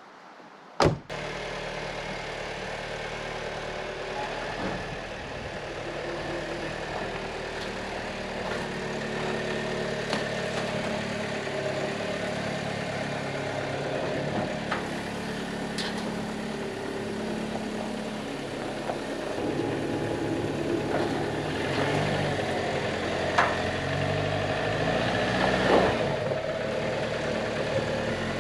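A Jeep's engine starts about a second in, then runs at low revs with a few small rises in pitch as it is driven over steep loading ramps.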